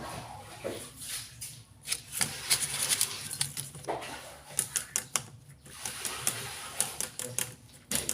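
Irregular clusters of sharp clicks and taps over a faint low hum.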